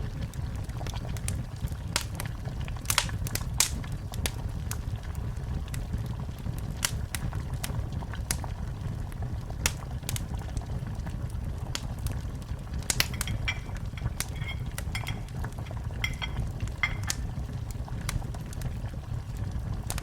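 Wood fire burning in a fireplace: a steady low rumble with irregular sharp crackles and pops. A few faint, brief higher tones sound about two-thirds of the way through.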